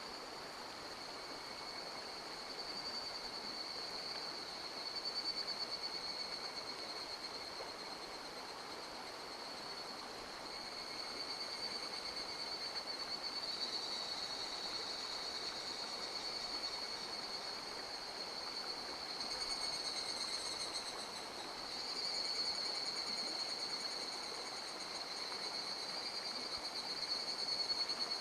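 Mountain stream flowing steadily, with an insect's continuous high-pitched trill over it that swells and fades slightly at times.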